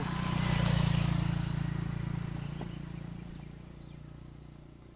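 Insects buzzing steadily in the background, with a low hum that swells about a second in and then slowly fades away.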